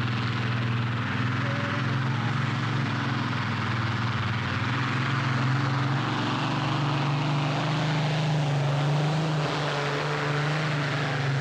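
Tractor engine running loud and steady, its pitch creeping up a little partway through.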